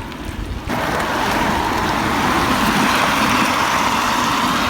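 Steady vehicle and road noise that comes in abruptly about a second in and then holds level.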